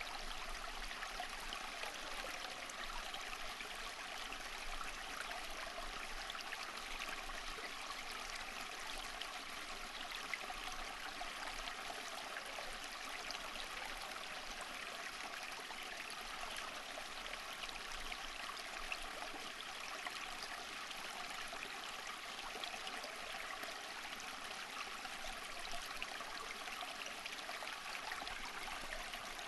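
Water running steadily in a stream, an even flowing and trickling wash with no breaks.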